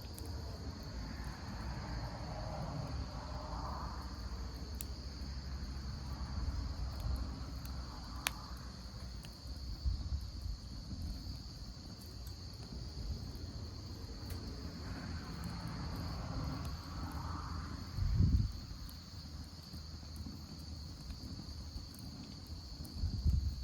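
Crickets chirping in a steady high-pitched chorus, with a few sharp pops from a wood campfire over a low rumble. Two low thumps stand out, one past the middle and one near the end.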